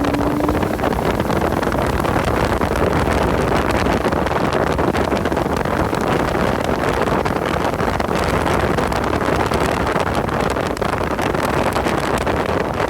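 Car lapping a race track at speed, with engine and road noise under heavy wind noise on the microphone; the engine's pitch rises briefly at the start.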